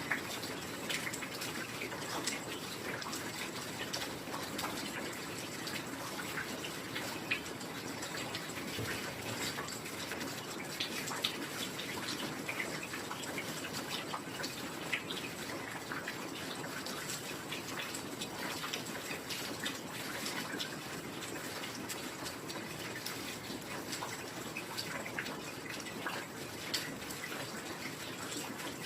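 Heavy rain falling steadily, an even hiss dense with small drop impacts and an occasional louder drip.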